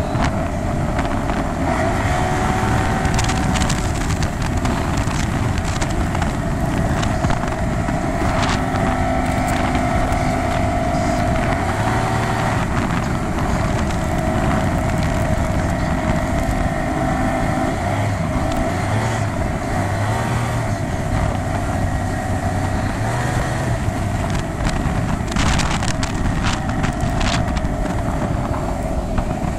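1976 Mercury Black Max 175 hp V6 two-stroke outboard running steadily under load, its pitch holding with small wavers, over a constant rush of wind and water with scattered knocks.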